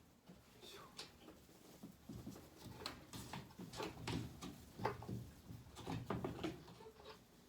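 Irregular light knocks and clicks of parts and tools being handled, coming thick and fast from about two seconds in and dying away near the end.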